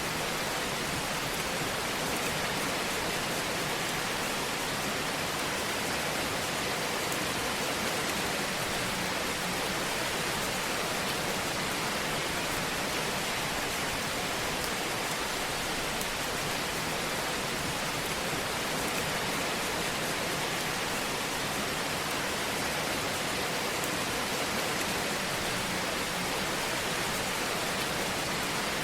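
Fireplace fire crackling and hissing as a steady, even wash of noise, with no single loud pops standing out.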